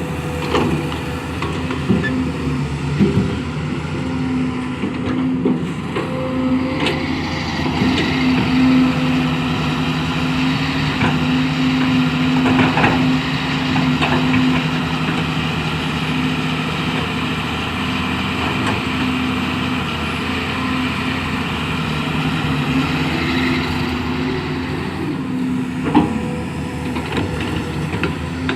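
Hydraulic excavator's diesel engine working steadily under load while digging and levelling soil, with a few sharp knocks from the bucket and arm. The engine note sags briefly and recovers a few seconds before the end.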